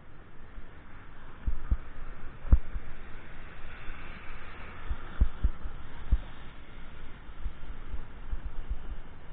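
Irregular low thumps over a steady hiss, typical of wind buffeting and jolts on a microphone carried on a moving bicycle.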